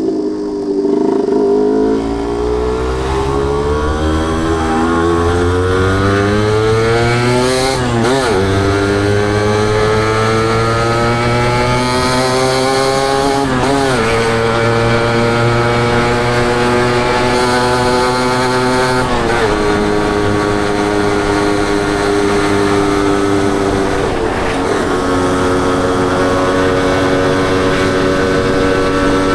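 Suzuki WOLF125 two-stroke single-cylinder motorcycle exhaust, accelerating up through the gears. Engine pitch climbs slowly, with short dips at upshifts about 8, 14, 19 and 24 seconds in, then holds steady at a cruise.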